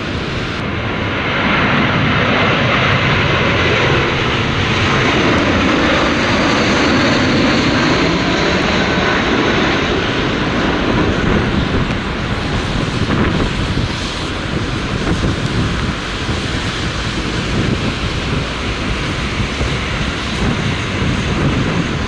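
Jet airliner's engines passing close by, the roar swelling a couple of seconds in with shifting pitch, then easing after about twelve seconds. Strong gusting wind buffets the microphone throughout.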